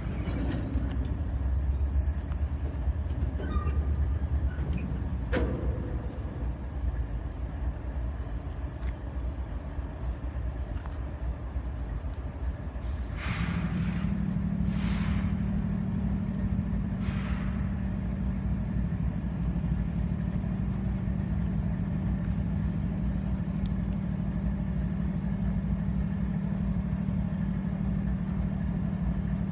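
Diesel freight locomotive running while switching tank cars, with a sharp knock about five seconds in. A little before halfway, three short bursts of air hissing from the brakes, and a steady low engine drone sets in and holds.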